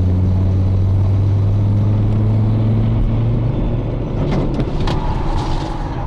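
Car engine running with road noise, a steady low hum whose pitch rises slightly partway through, then a few sharp knocks about four to five seconds in.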